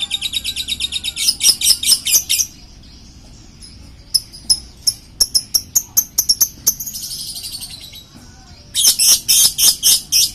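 A songbird singing: fast trills of high, rapidly repeated chirps, with loud dense bursts shortly after the start and again near the end, and single sharp chirps in between.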